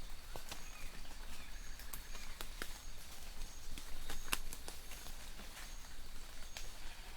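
Light rain in a forest: scattered drops tapping irregularly over a soft hiss, with short high bird chirps repeating in the distance.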